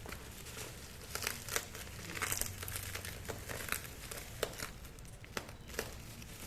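Packaging being handled and unwrapped, crinkling and crackling in short irregular bursts, with a few sharper crackles.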